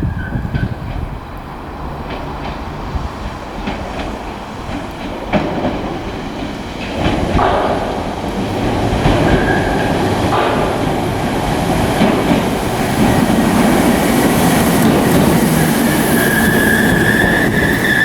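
Merseyrail Class 507/508 electric multiple unit running through the station, growing louder, its wheels clicking over rail joints, with a high steady squeal near the end.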